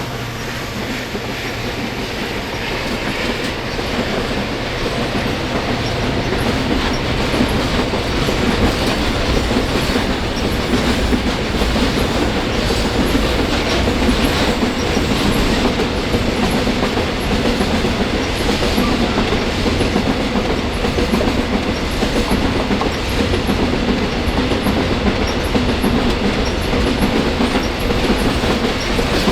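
Freight train wagons rolling past, their wheels clicking steadily over the rail joints. It grows louder over the first several seconds, then holds steady.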